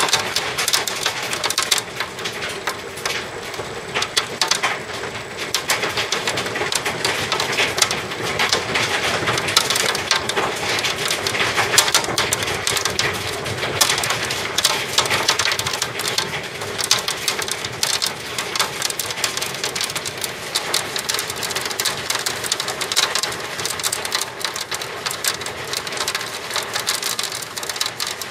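Hailstorm: a dense, continuous clatter of hailstones and heavy rain striking hard surfaces, many small impacts a second at a steady level.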